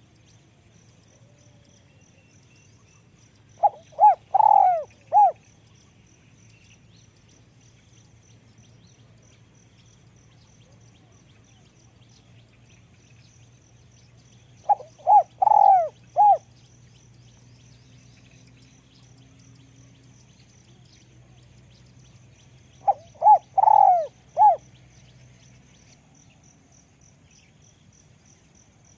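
Spotted dove cooing: three short phrases of about four coo notes each, spaced roughly ten seconds apart.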